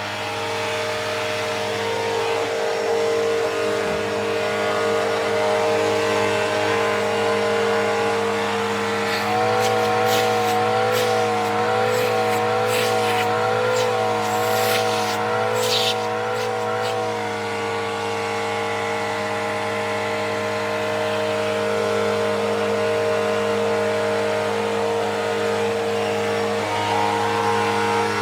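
Bissell CleanView Revolution Turbo upright vacuum running with a steady motor whine. From about nine seconds in its pitch wavers up and down roughly once a second for several seconds, with scattered clicks, then settles back to a steady whine.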